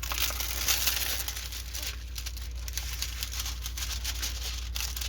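Plastic packaging crinkling and rustling as it is handled, a dense run of small crackles, busiest in the first second.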